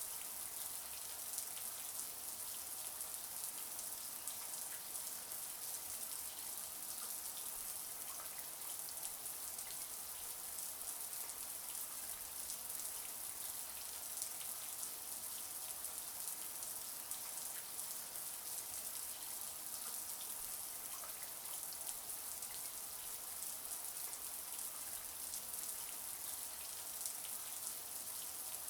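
Shower water spraying steadily, a constant high hiss with fine droplets pattering on a surface.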